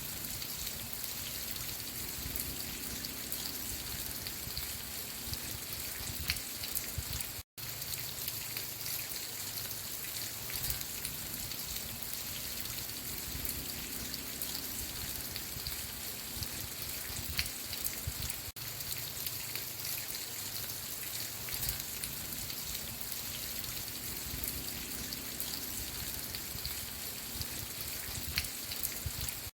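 Steady rain falling, with scattered individual drops ticking. The sound cuts out completely for a split second about seven and a half seconds in.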